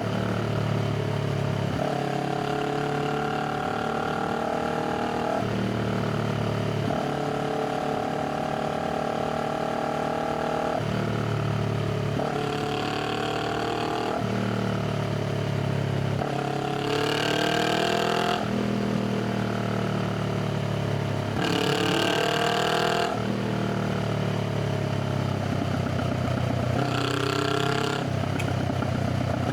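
Honda Rebel 500 parallel-twin engine heard through its exhaust while riding, its pitch holding and stepping as the bike accelerates and changes gear. Twice, a little past halfway and again about five seconds later, the engine is opened up harder and runs louder, rising and falling in pitch.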